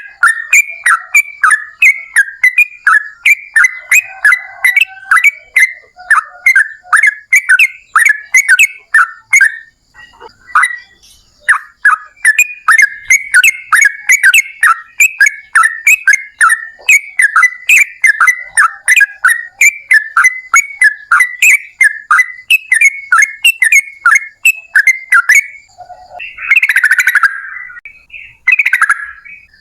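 Yellow-vented bulbul (trucukan) singing a long rapid run of short chirping notes, several a second, with a brief pause about ten seconds in. A few harsher, noisier calls come near the end.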